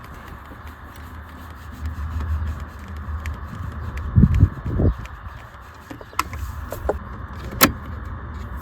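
Handling noises of a CB radio and its mounting brackets being worked into place under a car's dashboard: rubbing and scraping, two knocks about halfway, and a few sharp clicks later on, the loudest near the end.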